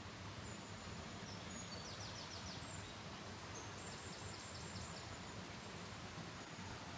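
Faint outdoor ambience: a steady, even hiss with two short runs of faint high-pitched chirps, about two seconds in and again around four to five seconds, as from small birds.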